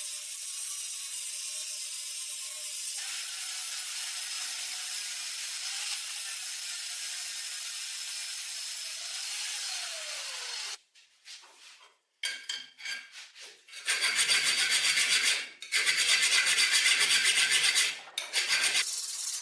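Rust being scraped and abraded off the corn sheller's cast iron parts. There are about ten seconds of steady rasping, a brief pause with a few light scrapes, then two long, loud rasping strokes.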